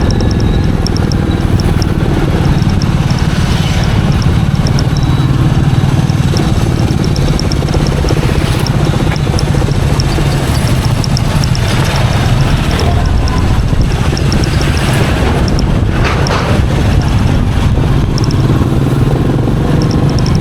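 Royal Enfield Meteor 350's single-cylinder engine running steadily as the bike is ridden, with a faint fast ticking high over the engine sound.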